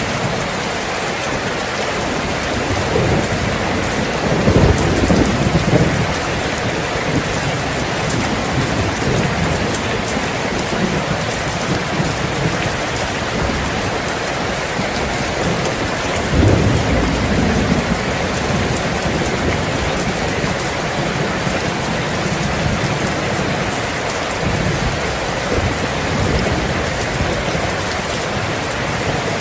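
Steady, heavy rain falling, with low rolls of thunder rumbling twice: a few seconds in, and again about halfway through.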